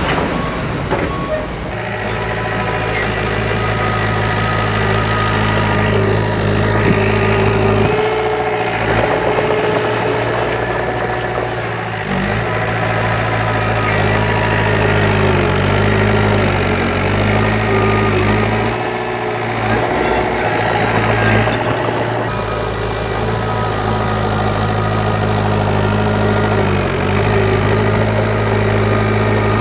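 Diesel engine of heavy earthmoving machinery, a bulldozer or dump truck, running steadily. Its pitch dips briefly a few times, as when the load changes.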